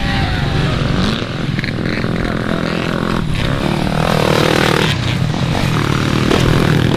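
Motocross dirt bike engines revving, rising and falling in pitch as the throttle opens and closes.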